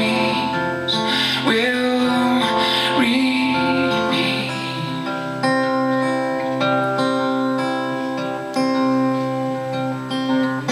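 Acoustic guitar playing an instrumental passage between verses of a live folk song, with held notes and a new chord struck every second or few.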